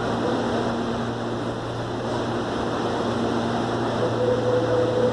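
CAF series 7000 electric multiple-unit train running at a station platform: a steady mechanical hum and rushing noise, with a steady higher tone joining about four seconds in.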